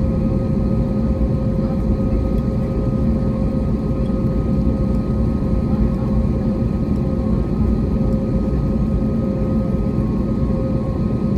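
Steady cabin noise of an Airbus A321neo with its engines running: a low rumble with a constant mid-pitched hum and a fainter higher one, unchanging throughout.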